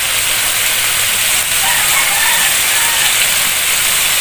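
Chicken livers sizzling in oil in a wok as the pan juices cook down. A rooster crows faintly in the background from about one and a half seconds in to about three seconds.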